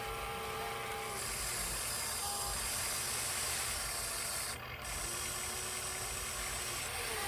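1/14 scale radio-controlled truck running: a steady hiss with a faint held whine. The high hiss drops out briefly a little past halfway.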